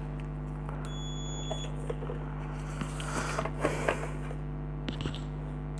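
Digital multimeter giving one high, steady beep of under a second, the beep of its diode/continuity test mode, followed by handling clicks and rustles over a steady low hum.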